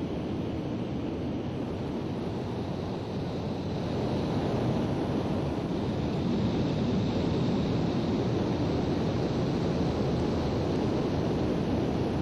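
Aircraft noise heard from on board: a steady roar of engine and airflow, growing slightly louder about four seconds in.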